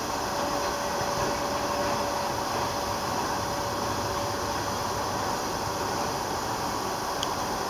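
A slow-moving freight train's covered coil cars rolling past, a steady noise of wheels on rail with a faint steady tone running through it.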